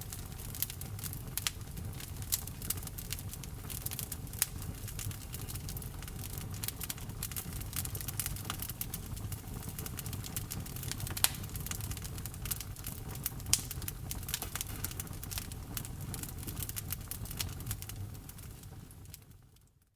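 Wood fire crackling in a fireplace: many sharp, irregular snaps and pops over a low steady rumble, fading out over the last two seconds.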